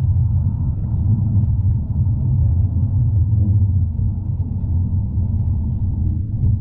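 Tram running along its tracks, heard from inside the car: a steady low rumble with faint light ticks over it.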